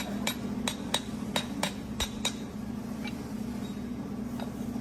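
A hammer tapping on steel: quick light metallic strikes with a ringing edge, about three a second, thinning out and getting fainter after about two seconds, over a steady low hum.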